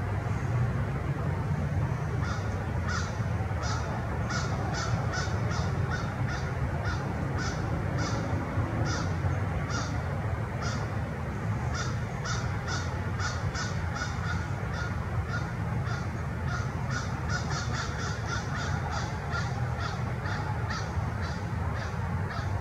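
A bird calling in a long series of short, high notes, roughly two or three a second, over a steady low rumble.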